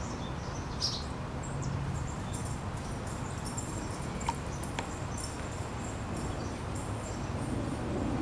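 Outdoor backyard ambience: small birds chirping in short, scattered high calls over a steady low hum.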